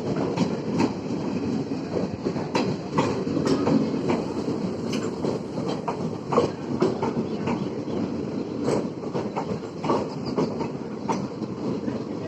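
Express passenger train's coaches rolling through the station, with a steady rumble and the wheels clacking irregularly over the rail joints.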